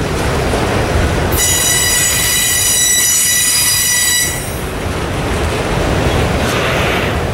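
Freight train of autorack cars rolling past with a steady rumble of steel wheels on the rails. About a second and a half in, the wheels set up a high, steady squeal that cuts off about three seconds later.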